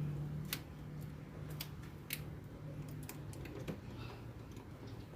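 Scattered sharp clicks and taps, about six in a few seconds, of egg-incubator parts being handled and fitted into place, over a steady low hum.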